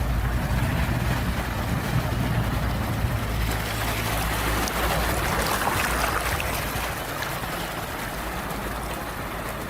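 Ocean surf: a steady low rumble of sea and wind, with a wave washing in that swells to a hiss about five seconds in and then fades.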